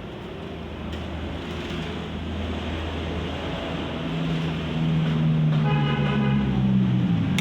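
A motor vehicle's engine growing louder as it approaches, with a short horn-like toot about six seconds in.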